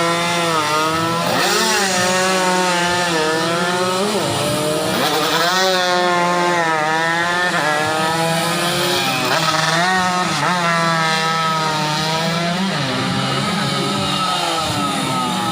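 Several tuned 120cc underbone motorcycles racing, their small engines revving high and dropping back in pitch again and again through gear changes, the overlapping notes of different bikes sweeping up and down.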